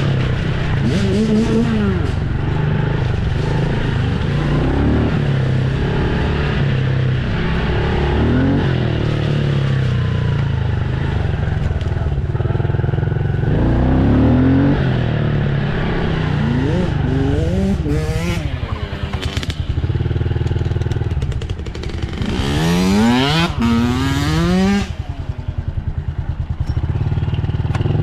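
Dirt bike engine running steadily, its revs rising and falling again and again, with a run of quick climbing sweeps about two-thirds of the way through.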